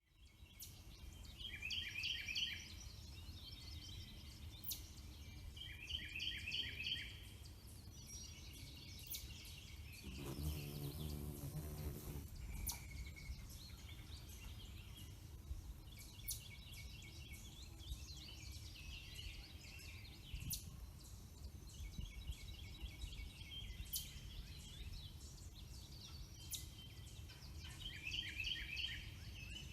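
Songbirds singing outdoors. One bird repeats a short phrase of quick high notes every few seconds, with other chirps and calls between, over a steady low background rumble. About ten seconds in, a low pitched sound lasts about two seconds.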